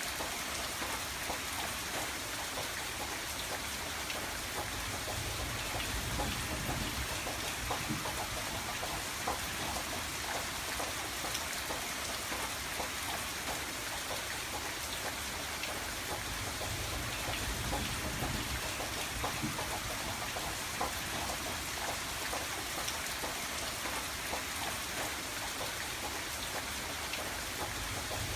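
Steady rain on a window pane, a dense patter of many small drop ticks over an even hiss, with a low rumble that swells and fades twice.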